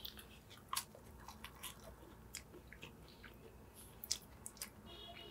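A person chewing a mouthful of fried chicken sandwich: faint, scattered wet mouth clicks and soft crunches.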